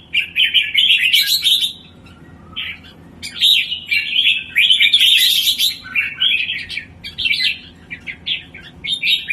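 Songbird singing long runs of rapid, varied chirps and trills, with a short lull about two seconds in before it starts again. The bird is 'naik form': in full singing condition.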